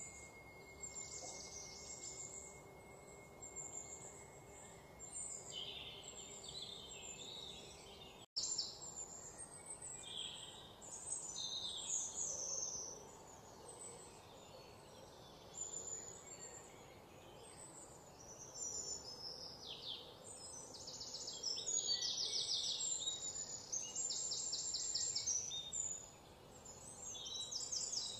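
Birds chirping and calling over a faint background hiss, with fast rapid-fire trills in the last third.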